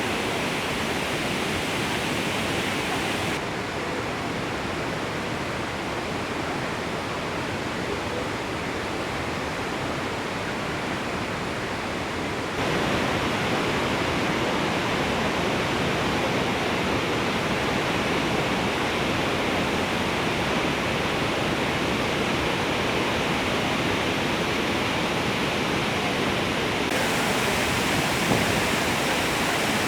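Iguazu Falls in flood: a continuous rush of heavy water pouring over the falls. Its tone and loudness shift abruptly a few seconds in, again at about halfway, and again near the end.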